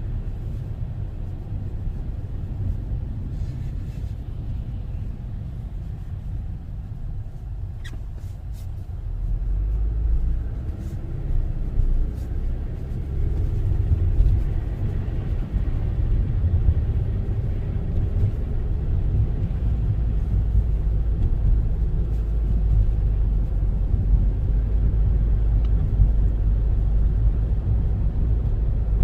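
Car driving, heard from inside the cabin: a steady low rumble of engine and road noise that grows louder about ten seconds in. There are a few faint clicks near eight seconds in.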